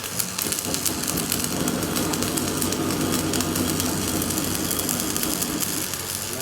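Workshop machinery running: a fast, even rattle of clicks over a steady hum.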